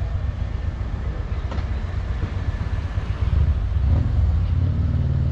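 Road traffic passing close by: a steady low rumble of tyres and engines, with one vehicle's engine hum growing louder about three and a half seconds in.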